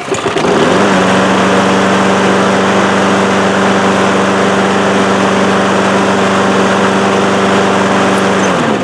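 Small lawn mower engine running at a steady speed. It comes up to speed in the first second, holds steady, then winds down and stops near the end.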